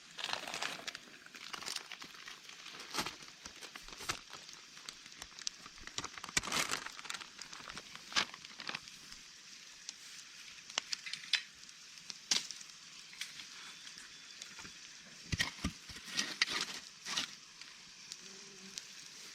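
Irregular rustling and crinkling with scattered sharp clicks and taps, from camping gear and tent fabric being handled during setup.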